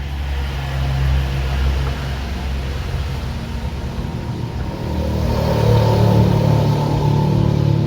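A steady engine or motor rumble that grows louder about five seconds in.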